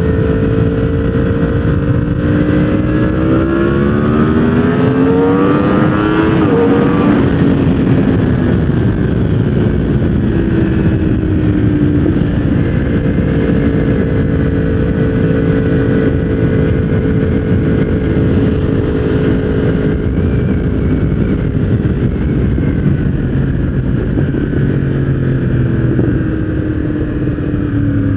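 Yamaha R1 inline-four motorcycle engine with a full exhaust system, under way. Its pitch climbs for several seconds as it accelerates, then holds steady at cruise, and falls away near the end.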